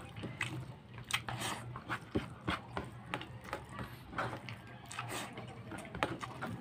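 Close-up mouth sounds of eating rice and ribs by hand: irregular wet smacks and clicks of open-mouthed chewing, a few standing out sharply, over a steady low hum.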